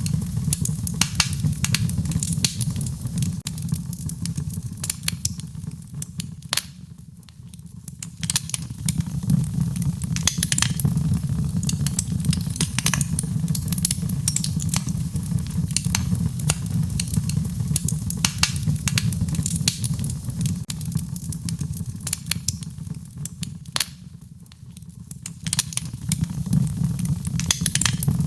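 Wood fire crackling in a fireplace: frequent sharp pops and snaps over a steady low rumble of flames. The rumble dies down briefly twice.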